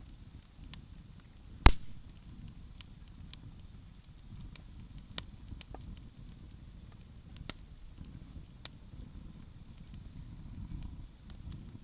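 Wood campfire crackling, with scattered sharp pops of burning wood and one loud snap about two seconds in, over a low steady rumble.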